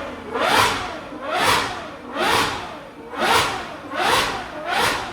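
A car engine revving hard with tyre noise, swelling and fading six times at about one pass a second with a sweep in pitch on each pass, typical of a car spinning donuts close by.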